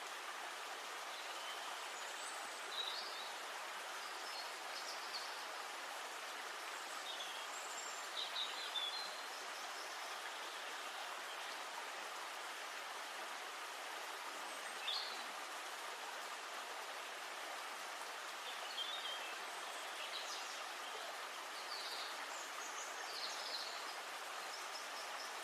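Steady rush of flowing river water, with short bird chirps now and then.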